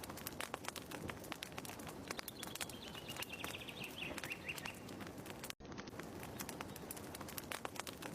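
Fireplace fire crackling and popping with a steady hiss, with a faint high whistle slowly falling in pitch around the middle. The sound cuts out for an instant about five and a half seconds in.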